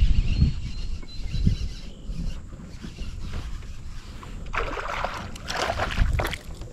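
Wind buffeting the microphone on a fishing kayak on the water, with low rumble throughout. A burst of irregular splashing and handling noise comes about four and a half seconds in and lasts a couple of seconds.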